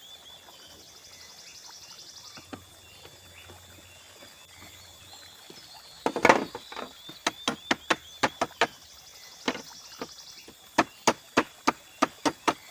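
Bamboo being chopped with a blade: one loud splintering crack about six seconds in, then a run of sharp chopping strikes coming in quick series of several blows each. Before the chopping there is only faint stream and insect background.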